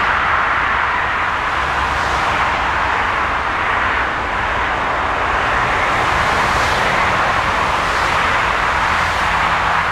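Jet airliner's engines heard close by: a loud, steady rushing roar over a low rumble, with no break.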